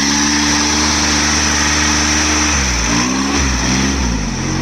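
Diesel tractor engine revved hard and held at high revs, then easing off and revving up again before dropping near the end.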